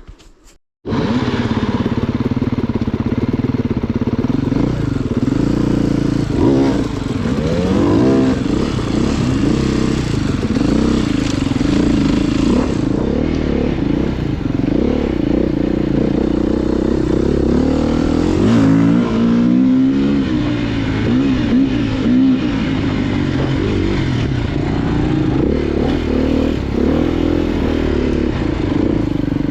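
Off-road motorcycle engine running under load, its pitch rising and falling again and again as the throttle is worked while the bike is ridden over rough trail; the engine sound cuts in abruptly about a second in.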